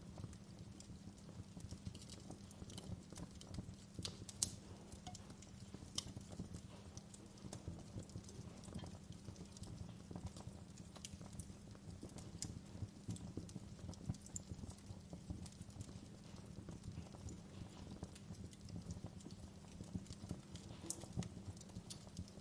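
Wood fire burning in a fireplace, crackling with frequent small irregular snaps and a few louder pops over a low steady rumble of flame.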